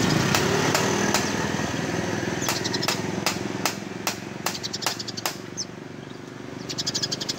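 Eurasian tree sparrow chirping: a series of sharp single chirps, about two to three a second, then a quick run of rapid high chirps near the end. A steady low engine hum runs underneath.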